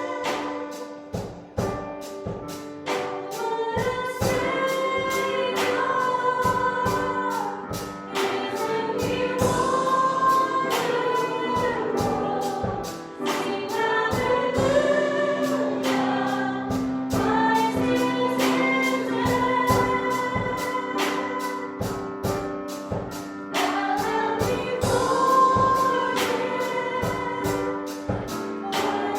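Congregational worship song: a group of singers with band accompaniment over a steady drum beat.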